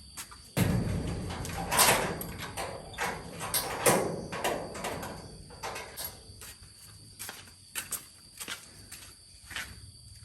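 Clattering and knocking that starts suddenly about half a second in, loudest in the first four seconds and then thinning to scattered knocks. A steady high insect trill runs underneath.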